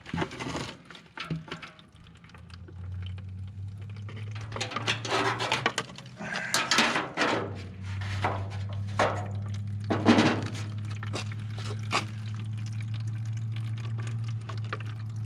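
Fuel being flushed out of an old tractor's fuel tank, diesel and stale gasoline draining into a container, with several clanks of metal and a steady low hum underneath.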